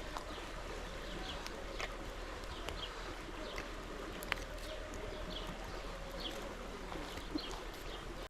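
Small birds chirping in short, repeated calls over a steady background hiss of outdoor ambience, with a sharp click a little past the middle.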